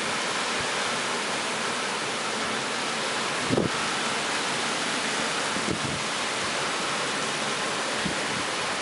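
Heavy rain pouring steadily as a dense, even hiss, with a brief thud about three and a half seconds in.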